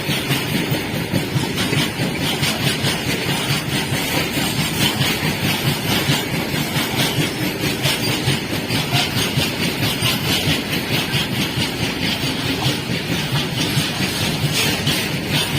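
Train running along the track, its wheels clattering over the rails in a rapid, steady rhythm with a continuous rumble.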